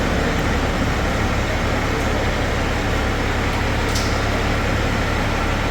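Diesel truck engine running steadily at low speed as a cab-over truck is driven up onto a trailer, with a short click about four seconds in.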